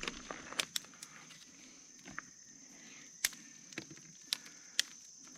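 Steady high-pitched insect drone, with about half a dozen scattered sharp clicks and snaps.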